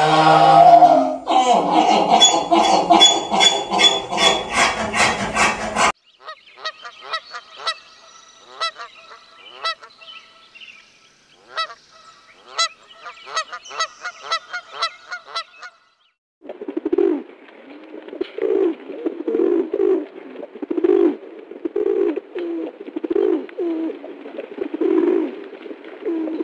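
A mule braying in loud rhythmic pulses, then a flock of domestic geese honking and cackling. For the last ten seconds a pigeon coos in low repeated phrases, about two a second.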